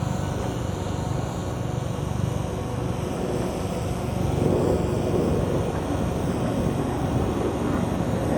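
Model airplane engine running steadily, growing louder about halfway through.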